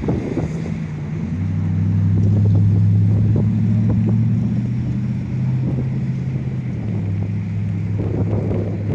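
A CN intermodal freight train rolling past close by, with a loud steady low drone and scattered clicks of wheels over the rails. Wind buffets the microphone.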